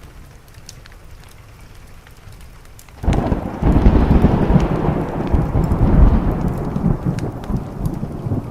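Steady rain with small sharp crackles. About three seconds in, a sudden thunderclap breaks into a long, deep rolling rumble that slowly fades.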